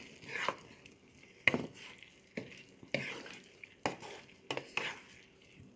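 A utensil stirring vegetables and gravy in a pan to spread in freshly added cornstarch, knocking and scraping against the pan about once a second.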